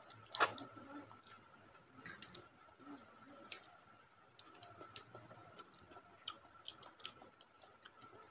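Faint sounds of people eating instant noodles: chewing, with scattered light clicks of steel forks against the bowl. A sharp click about half a second in is the loudest. A faint steady high tone runs underneath.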